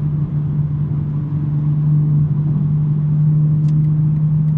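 2023 BMW M3's twin-turbo inline-six, fitted with a non-resonated J-pipe exhaust, cruising at a steady engine speed: one steady low note, growing a little louder about two seconds in.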